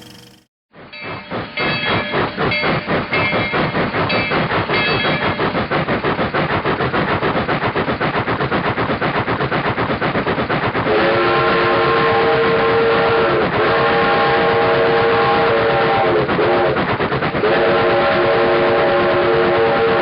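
Train running past with a rapid, rhythmic clatter of wheels. From about halfway through, a multi-tone horn or whistle sounds a chord in three long blasts, the second one bending in pitch near its end.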